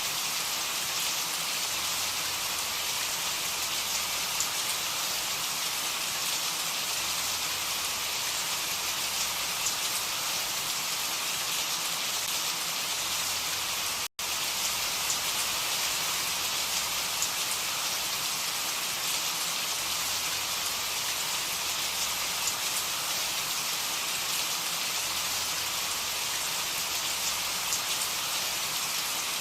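Steady rain, a dense even hiss of falling drops with fine ticks of individual drops. The sound drops out for an instant about halfway through.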